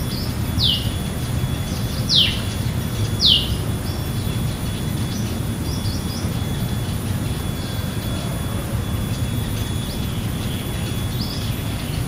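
A bird calling: three short, sharp notes that each slide downward, within the first few seconds, then fainter scattered chirps, over a steady low background rumble.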